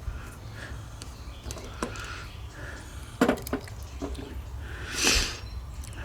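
Small parts of a scooter carburetor being handled: a few sharp clicks and taps, with a short hiss about five seconds in, over a steady low hum.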